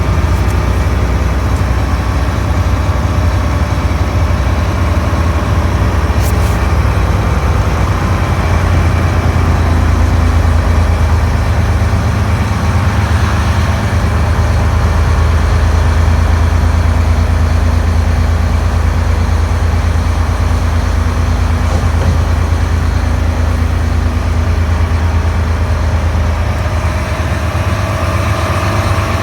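A heavy truck's diesel engine runs with a steady, loud low drone that barely changes.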